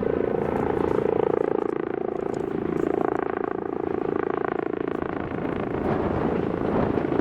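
Electric train running over a steel railway bridge. A steady whine with overtones holds for about five seconds, then gives way to a noisier rattling rumble.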